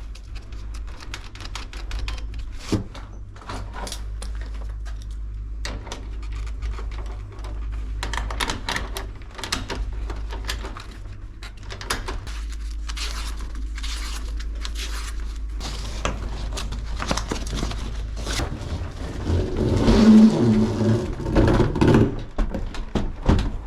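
Hands-on work noise: irregular clicks, knocks and scraping of tools and parts being handled, over a steady low hum, growing louder and busier near the end.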